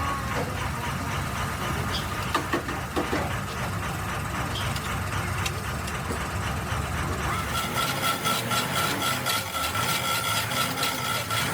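A steady low rumble with a few scattered knocks. About eight seconds in, a fast, even rhythm of hand rubbing or scraping strokes starts up and carries a steady ringing tone.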